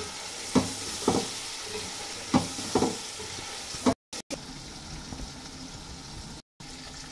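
Chicken pieces frying in hot oil in a large metal pot, sizzling steadily, while a wooden spatula stirs them. The spatula knocks and scrapes against the pot about five times in the first four seconds, and after that only the sizzle goes on. The sound cuts out briefly twice.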